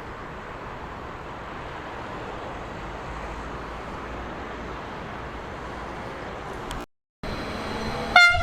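Steady rolling vehicle noise that rises slightly, then a sudden drop to silence about seven seconds in. Just before the end a loud, sudden sound with a high ringing tone begins.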